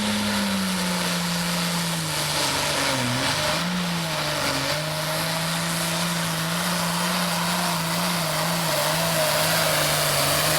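Hot farm class pulling tractor's engine running hard at high revs under load as it pulls the sled, its pitch sagging briefly about three seconds in before recovering and holding steady.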